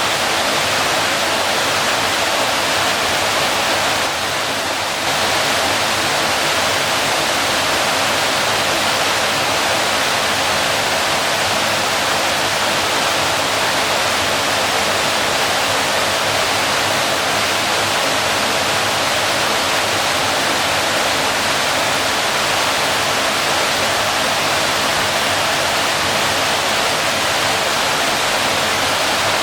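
Waterfall: water falling and splashing in a steady, even rush, dipping slightly for about a second around four seconds in.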